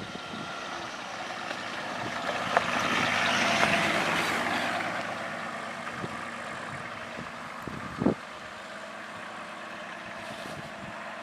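BMW E34 525tds diesel straight-six running, with a broad swell of sound that rises and fades over a few seconds early on, and one short thump about eight seconds in.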